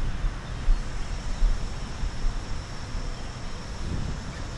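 Wind buffeting the microphone: an uneven low rumble with gusty peaks in the first couple of seconds, over a faint steady high-pitched hum.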